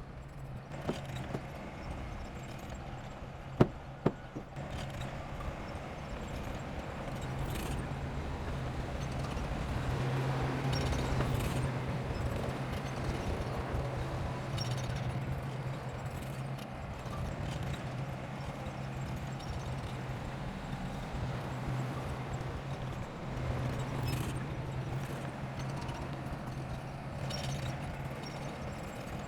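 A heavy construction machine's diesel engine running steadily, with a few sharp metallic clanks in the first four seconds. It grows louder from about eight seconds in.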